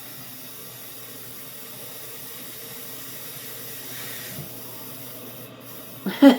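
Samsung AddWash front-loading washing machine filling: a steady hiss of water spraying in. A brief loud sound comes right at the end.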